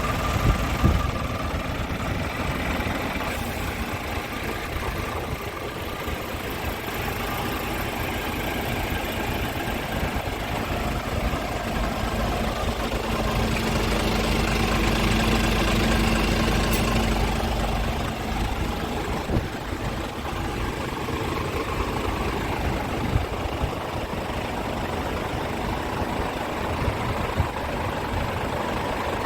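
Scania S410 tractor unit's 13-litre inline six-cylinder diesel running, mostly at idle, growing louder for several seconds about halfway through.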